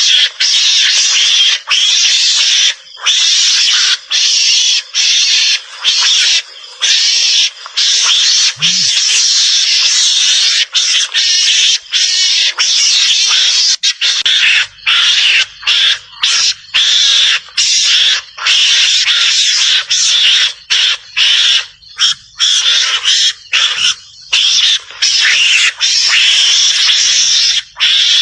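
Javan mongoose lure call: high, noisy chattering that runs in quick bursts broken by short gaps.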